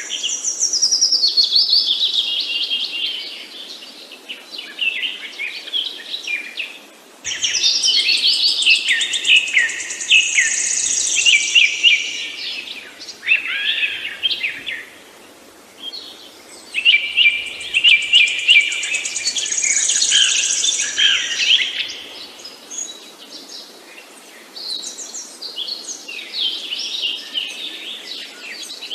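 Songbirds singing and chirping in overlapping bouts of a few seconds, each broken by a brief lull.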